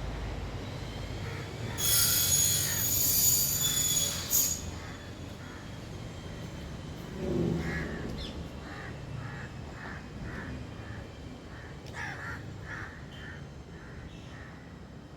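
A loud, high-pitched screech lasting about two and a half seconds, then a run of short, repeated bird calls, two or three a second, over a low traffic rumble.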